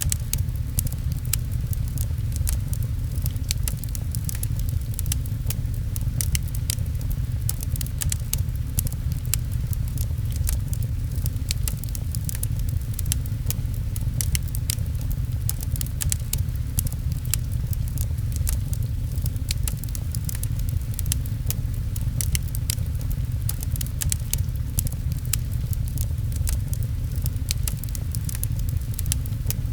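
Fireplace fire crackling, with many sharp, irregular pops, layered with rain over a steady low rumble.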